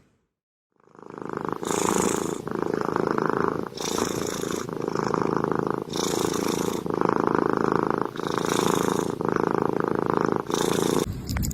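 Domestic cat purring close to the microphone, a steady buzz that starts about a second in and swells and dips in cycles of roughly two seconds as it breathes in and out.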